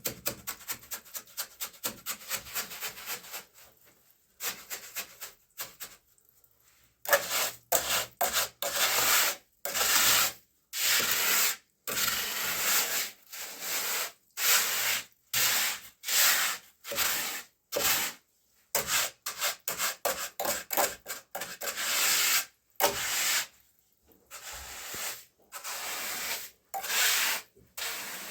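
A hand tool rubbing and scraping across a hard surface in repeated strokes. The strokes are quick and short for the first few seconds, then, after a brief pause, slower and longer at about one a second.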